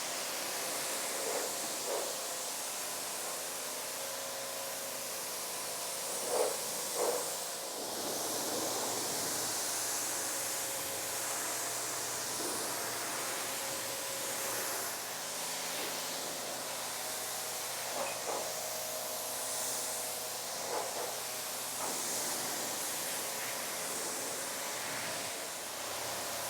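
Pressure washer spraying water over a car's paint: a steady hiss over a faint motor hum, with a few brief louder moments.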